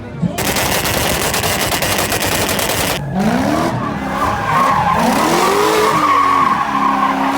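Car tyres squealing under a hard skid or drift, the engine revving up and down in pitch over a steady high squeal; the first few seconds are a dense, rapid crackle.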